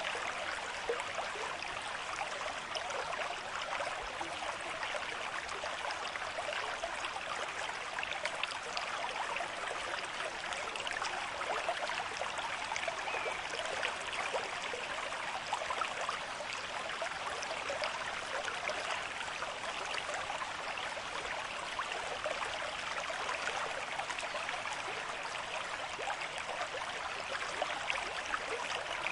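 River stream with a moderate flow, water running and splashing steadily over stones.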